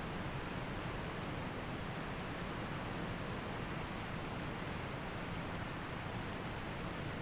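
Waterfall and mountain creek water rushing steadily.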